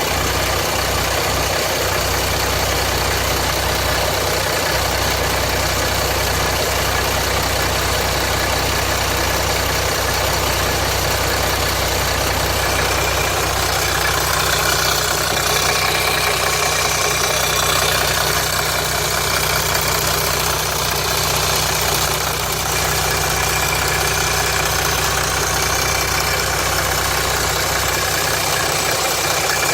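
Jeep Grand Cherokee 3.0 CRD V6 turbodiesel (Mercedes OM642) idling steadily with a rattle, which the owner suspects is a loose oil pump chain.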